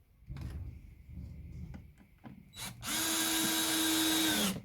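Power drill running steadily into wood for about a second and a half, dropping in pitch just before it stops, after a few knocks and clicks of handling.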